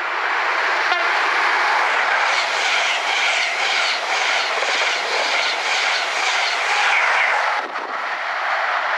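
Passenger train passing at speed, with a steady rush of wheel and rail noise and a faint regular clatter about twice a second. The noise dips suddenly near the end.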